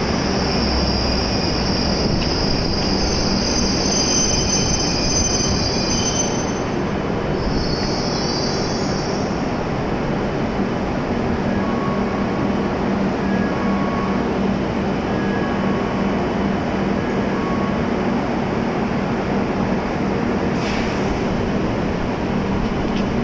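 W7-series Shinkansen train coming to a stop at the platform, its brakes giving a high squeal through roughly the first nine seconds. After that the standing train gives a steady hum.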